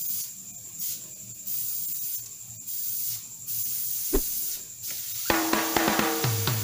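Airbrush spraying paint with a thin high hiss that comes and goes in short spurts as the trigger is worked. Background music drops away and comes back in about five seconds in.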